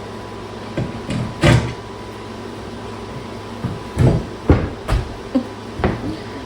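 Irregular knocks and clunks of heavy tool equipment being moved and set down, about nine hits spread unevenly, over a steady hum.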